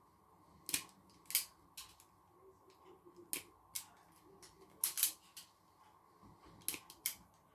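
Wire cutters snipping electrical wire and clicking against the connectors, about ten sharp clicks at irregular intervals.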